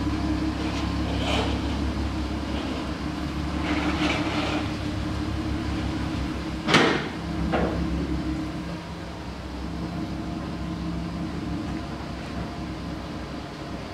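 Audi TT roadster's engine idling as the car creeps slowly across a workshop floor. A few brief sharp noises cut through it, the loudest a knock about seven seconds in.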